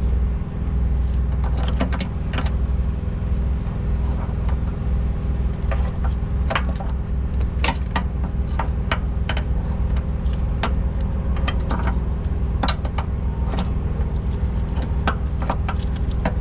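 Irregular sharp metal clinks and taps of a wrench working loose the nuts and fittings on a truck's air-suspension airbag, over a steady low drone of an idling truck engine.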